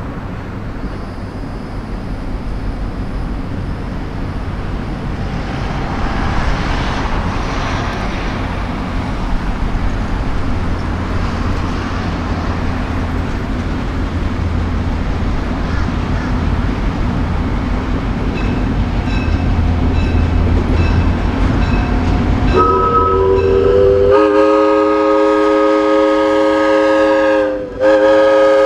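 Diesel locomotive running, its low rumble growing louder as it nears, then its multi-chime air horn sounds from about 22 seconds in as a steady chord of several tones, with a brief break near the end.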